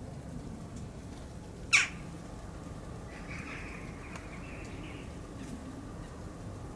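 Wild birds calling: one short, sharp, loud call about two seconds in, then a harsh, rasping call lasting about two seconds, over a steady low background rumble.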